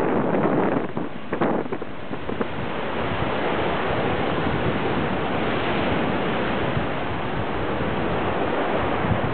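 Typhoon-driven waves on the sea, a steady rushing roar, with strong wind buffeting the microphone in gusts during the first couple of seconds.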